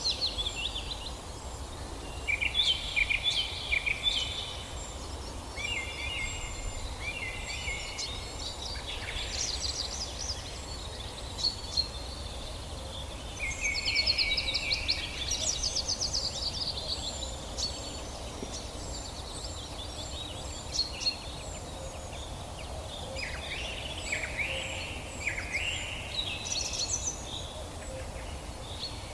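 Several songbirds singing and calling over one another in a forest, short chirped and trilled phrases following each other throughout. A steady low background rumble lies beneath them.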